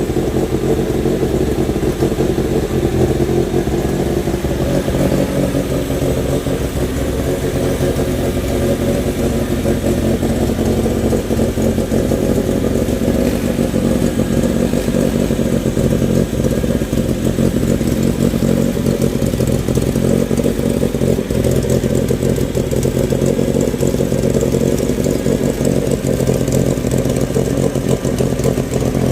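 Freshly rebuilt Renault 16 TX four-cylinder engine running steadily.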